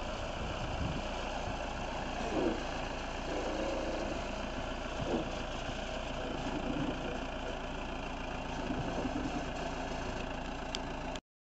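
Vehicle engine running steadily at low revs. It cuts off abruptly near the end, with one more brief burst after.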